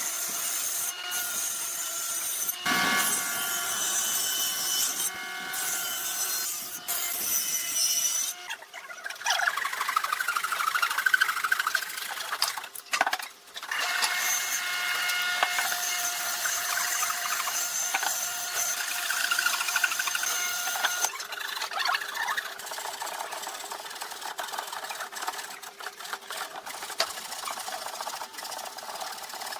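Woodworking power tools running and working wood: a steady machine whine over a cutting or sanding hiss, changing abruptly several times.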